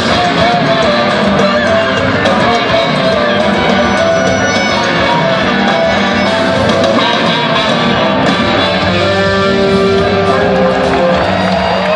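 Live rock band jamming, with electric guitar to the fore.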